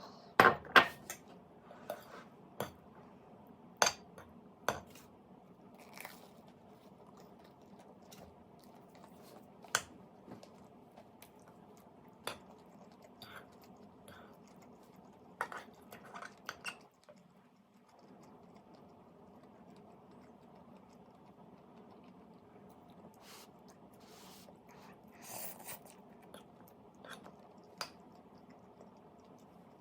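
Someone eating: scattered crunchy chewing and bites, with occasional sharp clicks of cutlery against dishes, the loudest about half a second in. A steady low hum runs underneath and drops out briefly about two-thirds of the way through.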